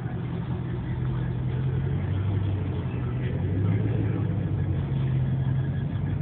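A car engine running steadily with a low rumble, its pitch shifting slightly and growing a little louder around the middle.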